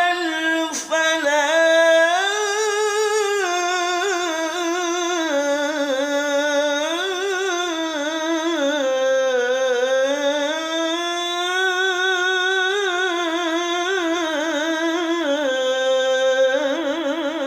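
A male muezzin's solo voice chanting the adhan, drawing out one long ornamented melisma between 'hayya 'ala' and 'l-falah', its pitch rising and falling with wavering trills.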